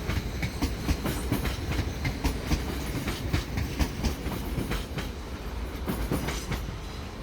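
Train wheels clattering over rail joints and points as a train rolls slowly through the station, with a steady low rumble and irregular sharp clacks throughout.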